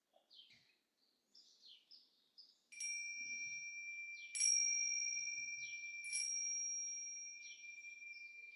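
A meditation chime struck three times, about a second and a half apart. Each strike rings on in two clear steady tones that fade slowly. Birds chirp faintly in the background.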